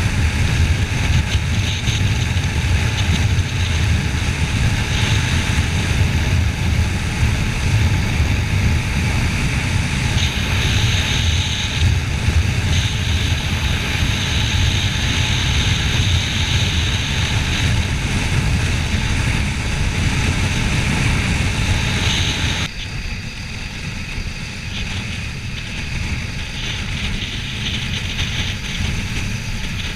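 Kawasaki Ninja 400 parallel-twin engine running at road speed, mixed with heavy wind noise on the camera while riding. About three-quarters of the way in, the sound cuts abruptly to a quieter, thinner drone.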